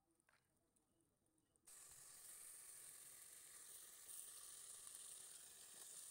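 Raw chicken pieces sizzling as they hit hot oil and spice paste in a metal cooking pot. The sizzle starts suddenly about a second and a half in, after near silence, and then runs steadily.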